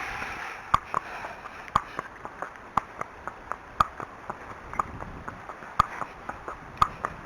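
Arabian horse's hooves clip-clopping at a walk in an even beat, a sharper hoof fall about once a second with lighter ones in between.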